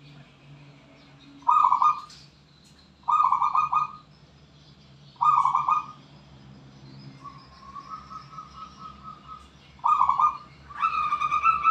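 Zebra dove cooing: four short, loud, rapidly trilled coo phrases, a softer and longer trilled coo in the middle, and a longer phrase beginning near the end.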